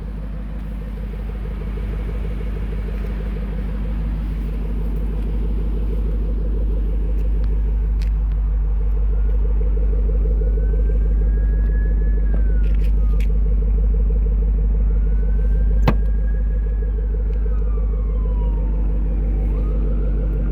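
Supercharged 5.4-litre V8 of a Shelby GT500 idling steadily with a deep, even pulse, growing gradually louder. A single sharp click comes about three-quarters of the way through.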